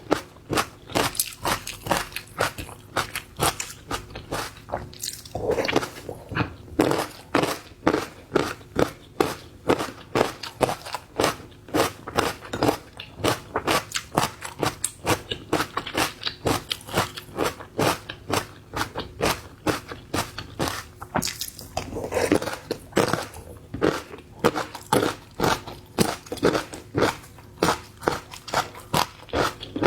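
Close-miked chewing and biting of seafood: a steady run of crisp crunches, about two a second.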